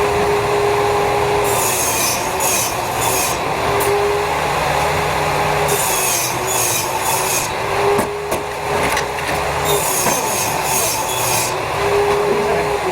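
Hand sawing of wood or board: three spells of quick back-and-forth strokes, over a steady hum.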